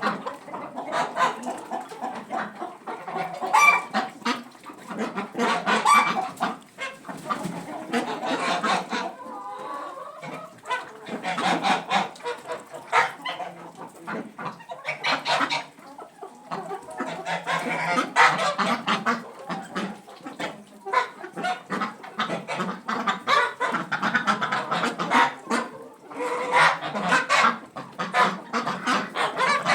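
A flock of poultry in a coop, many birds calling, clucking and honking over one another without a break.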